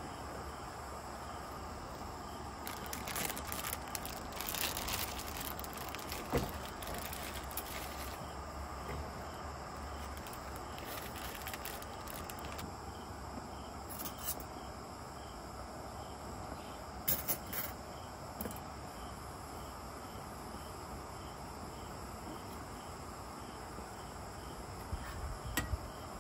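Insects chirping steadily in a regular pulse, with scattered short rustles and clicks a few seconds in and again later.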